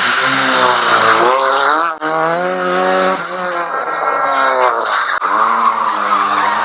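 Rally car engine at full throttle, its pitch climbing and dropping back again and again as it shifts gears and lifts, with a hiss of tyre noise over the engine for the first second or so.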